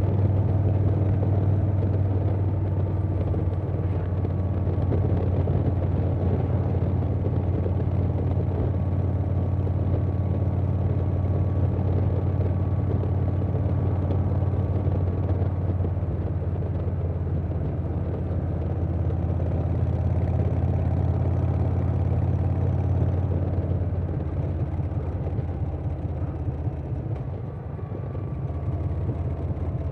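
2020 Harley-Davidson Softail Standard's Milwaukee-Eight V-twin running through a Vance & Hines Big Radius 2-2 exhaust while riding at a steady pace, with a deep, steady engine note; it eases off a little about three-quarters of the way through.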